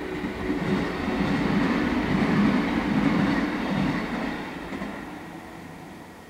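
Yellow JR West electric train passing on the rails, growing louder to a peak about halfway through and then fading away.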